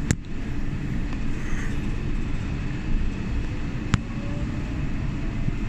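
Docklands Light Railway train running, heard from inside the carriage: a steady low rumble, with a sharp click right at the start and another about four seconds in.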